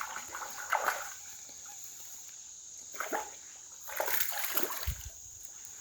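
Hooked largemouth bass splashing at the water's surface while being reeled in: several short bursts of splashing, the longest about four seconds in. A steady high cricket drone goes on behind.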